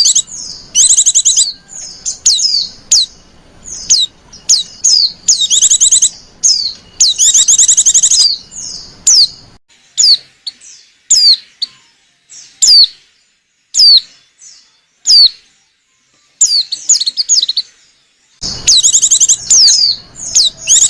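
Female white-eye (pleci) calling. Loud bursts of rapid high chirps thin out midway to single sharp down-slurred chirps about one a second, then turn dense again near the end.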